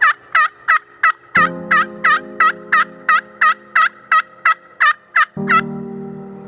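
A fast, even series of turkey yelps, about three a second. Steady low tones come in about a second and a half in and again near the end.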